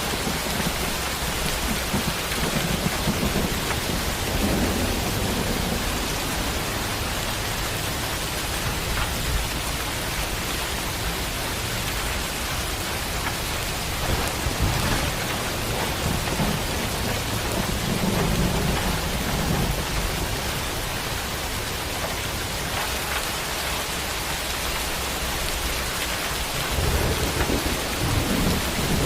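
Steady heavy rain with thunder rumbling low several times, swelling in around the start, again in the middle, and near the end.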